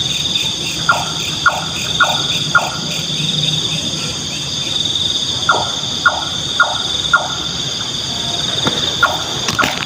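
Nightjar calling: runs of four short notes, about two a second, heard twice, then a single note near the end. A steady high insect chorus runs underneath.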